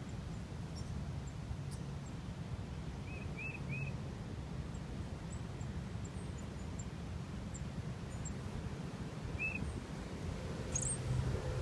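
Outdoor ambience with a steady low rumble and small songbirds calling: short, high chirps, three in quick succession about three seconds in and one more near the end, with faint higher ticks between.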